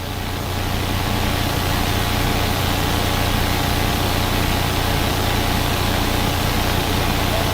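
Steady drone of a police helicopter's turbine engine and rotor, with a deep hum and a wide hiss. It fades in over about the first second.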